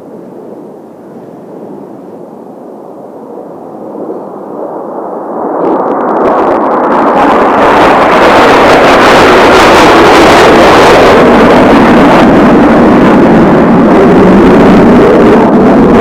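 Kawasaki T-4 jet trainers passing low over the field. The jet noise swells from about four seconds in and stays loud and steady to the end.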